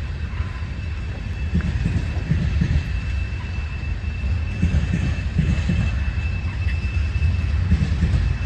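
A train running by: a loud, uneven low rumble with a thin, steady high-pitched whine over it.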